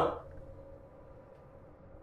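The last of a man's loud call dies away just after the start, leaving a faint steady hum: room tone.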